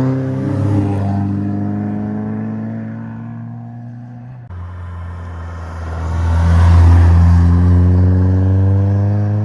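Two cars passing one after another, engines accelerating with a gently rising note. The first fades away, then after a sudden cut about halfway through a second car comes up, is loudest a couple of seconds later, and fades as it pulls away.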